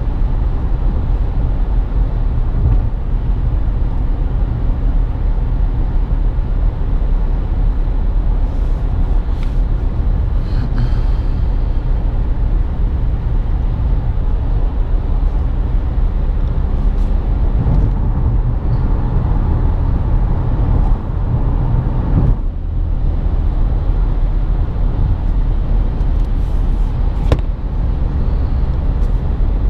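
Steady road and wind noise inside the cabin of a 2017 Nissan Rogue cruising at highway speed, a constant low rumble with a single sharp tick near the end.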